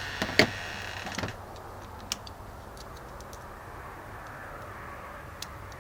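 Metal hand tools clicking and clinking: a quick cluster of sharp clicks in the first second or so, one more a second later, then only a faint steady background.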